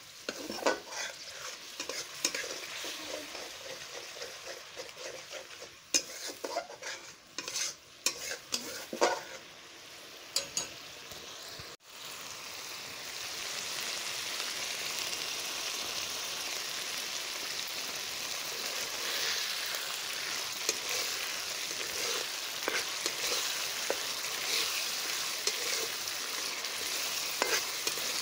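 A spoon stirring and scraping masala around a kadhai, with irregular clicks against the pan, for about the first twelve seconds; then a steady sizzle as the onion-garlic masala fries with a little water just added.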